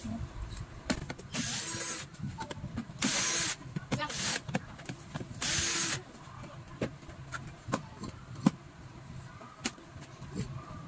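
Small electric screwdriver run in four short bursts of half a second or less, backing screws out of a kettle base, amid sharp clicks and knocks of tools and plastic parts being handled.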